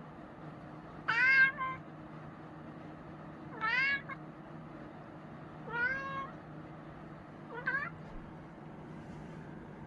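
A chinchilla cat meowing four times, about two seconds apart, each meow rising then falling in pitch. The first is the loudest; the last is shorter and fainter.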